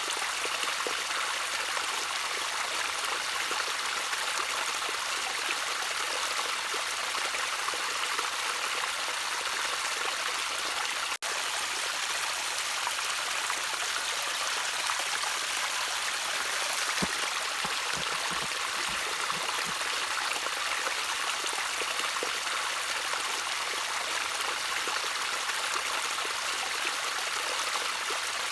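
Gently trickling water in a small natural stream, a steady hiss that sits mostly high. A momentary break about a third of the way through.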